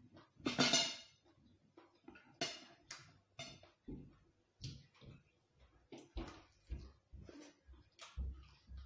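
Close-miked eating sounds: irregular chewing and mouth noises, about one or two a second, with a loud crackling bite about half a second in.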